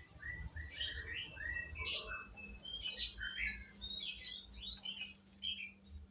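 Small birds chirping and twittering in quick, overlapping short calls.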